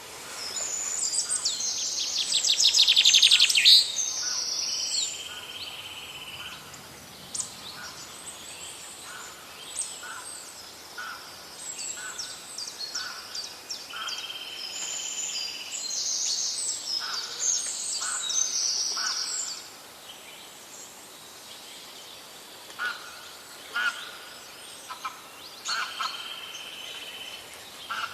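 Several wild birds singing and calling: overlapping high chirps, whistles and trills, with a loud rapid trill a couple of seconds in and short lower notes repeating throughout. The calling thins out about two-thirds of the way through.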